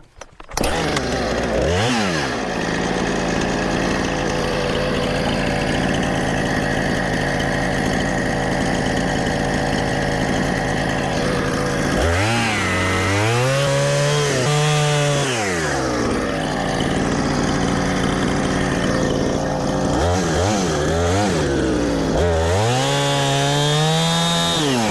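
Two-stroke chainsaw, a 20-inch Husqvarna, starting about half a second in and running hard, cutting into a split oak log. It revs up and back down several times.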